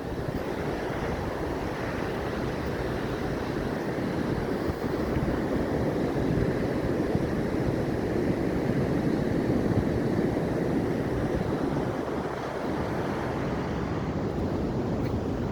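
Atlantic ocean surf washing onto the shore: a continuous rushing wash that swells louder through the middle and eases off again.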